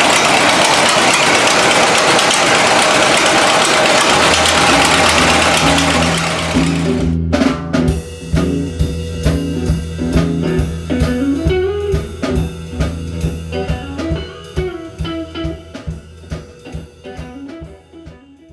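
Ford Model T four-cylinder engine of a homemade tractor running steadily, loud, until it cuts off about seven seconds in. Music with guitar and drums comes in under it about four seconds in, then plays alone with a steady beat and fades out.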